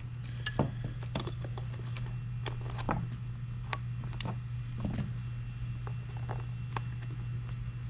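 Scattered, irregular light clicks and taps from hands handling the board's wiring and connectors, over a steady low hum.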